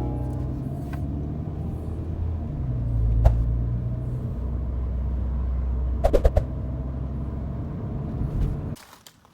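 Car running with a steady low rumble and a few short clicks and knocks; it cuts off suddenly near the end.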